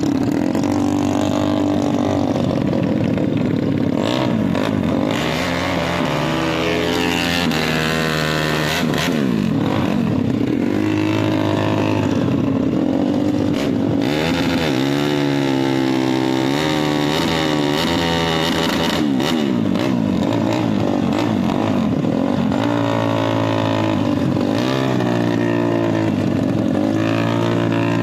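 Drag-racing motorcycle engines running and revving, the pitch climbing and falling several times over a steady engine drone.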